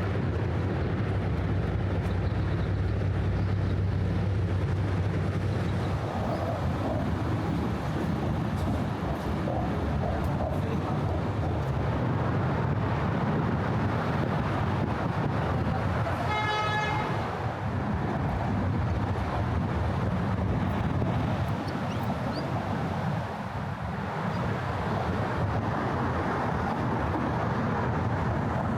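City street traffic ambience: a steady wash of passing vehicles, with a low engine hum in the first few seconds. A car horn honks once, briefly, about halfway through.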